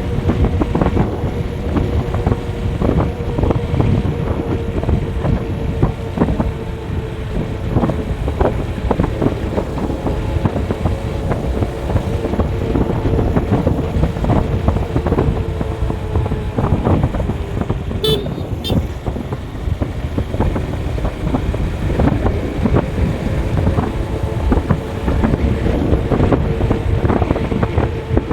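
A vehicle engine running at a steady cruising speed, with road and wind noise. About eighteen seconds in there are two brief sharp clicks.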